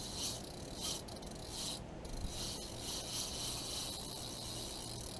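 Mcraft TG200 jigging reel being cranked by hand: a soft, high-pitched mechanical whir and rasp from its gearing, in a few short turns at first and then steady.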